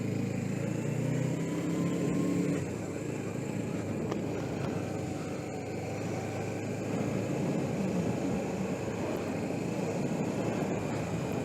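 Suzuki GS500E's parallel-twin engine running with a steady note, giving way about two and a half seconds in to a steady rush of wind and road noise over the helmet-camera microphone.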